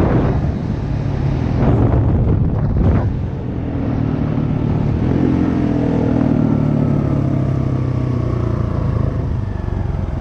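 Dirt bike engine running steadily while riding, with a few rushes of noise in the first three seconds.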